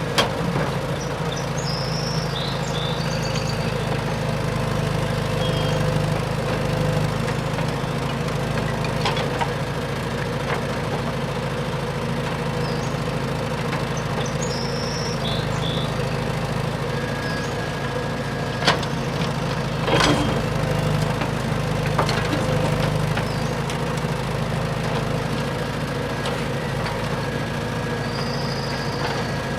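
Radio-controlled dump truck running with a steady engine-like drone, with a few sharp clicks and knocks from the model working past the middle.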